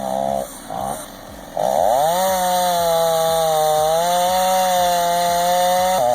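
Two-stroke chainsaw dropping off the throttle and blipping during the first second and a half, then revving up and running at steady high revs for about four seconds, its pitch wavering slightly as it cuts into the trunk.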